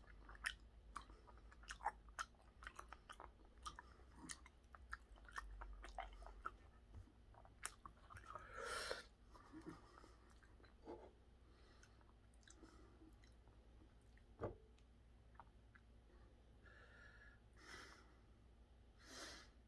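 Faint, close chewing of chewy raw tuna belly sashimi, with many small wet mouth clicks. There are a few short breathy puffs and one sharp click a little past the middle.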